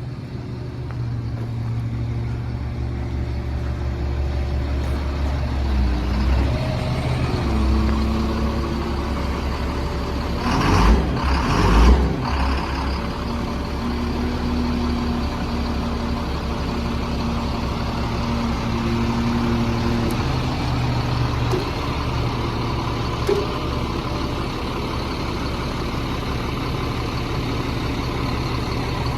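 The 2001 Sterling L7500 dump truck's Cat 7.2L inline-six diesel running, its engine note shifting in pitch a few times. About eleven seconds in, a louder noisy rush rises over it for a second or two.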